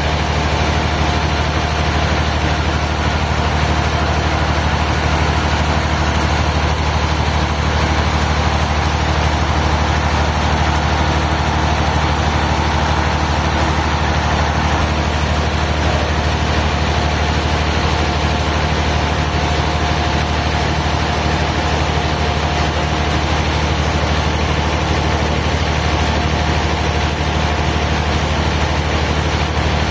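Sawmill machinery running steadily without load: a constant low engine or motor hum with a faint high whine over it.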